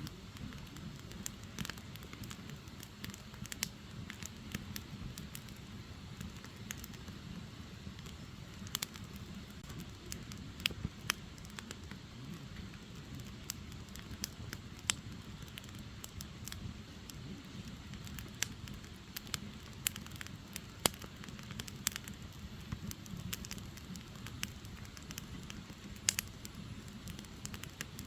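Firewood burning: the logs crackle with irregular sharp pops over a low, steady rumble from the fire.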